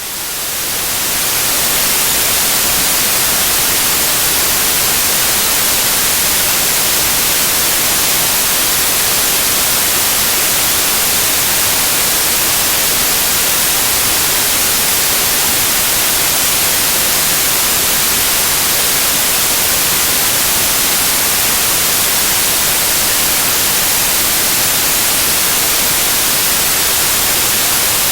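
Loud, steady white noise: an even hiss without any tone or rhythm. It fades in over the first second or two, then holds at one level.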